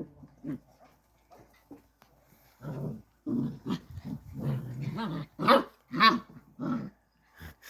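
Border collie puppies growling and yapping as they play-fight, in a run of short growls with two sharper, louder yaps past the middle.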